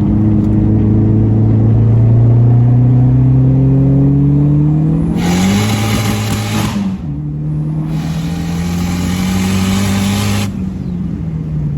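Big-turbo Dodge SRT-4's turbocharged four-cylinder pulling hard through the gears: the engine note climbs steadily, drops at a gear change about seven seconds in, climbs again, then falls away near the end. A loud hiss comes in at high boost about five seconds in, cuts out around the shift, and returns until the engine eases off.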